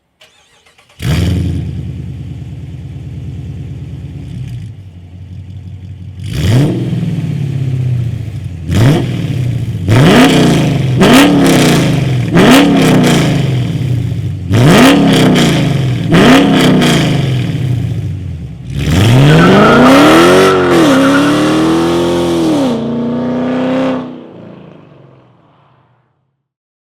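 2015 Dodge Charger R/T's 5.7-litre HEMI V8 through full Kooks headers and exhaust: starts up about a second in and idles, then is blipped in about seven short revs, then revved and held for several seconds before the sound dies away near the end.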